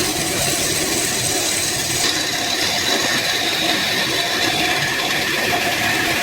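A woodworking power tool running steadily, an even mechanical noise with a faint steady whine.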